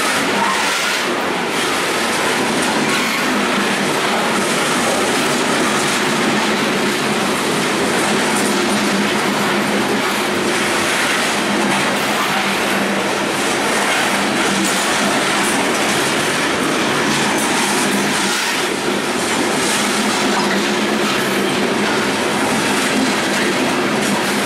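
Freight train gondola cars rolling past at close range: a steady, loud rumble and clatter of steel wheels on the rails.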